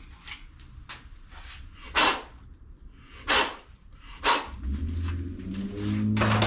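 A dog barking four times, about a second apart, with a steady low hum starting near the end.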